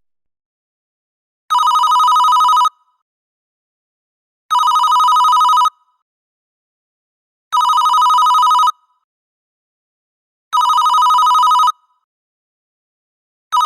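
Telephone ringing: a warbling two-tone electronic ring, each ring about a second long and repeated every three seconds, with dead silence between rings.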